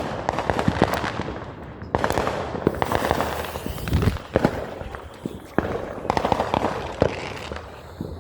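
Consumer fireworks going off: a dense, rapid crackling studded with sharper pops and bangs. The crackle swells anew about two seconds in and again about six seconds in, then thins out.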